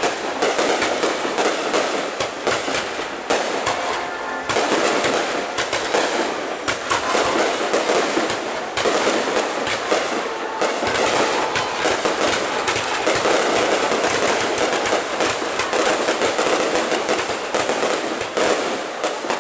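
Fireworks display going off in a dense, unbroken barrage of overlapping bangs and crackles.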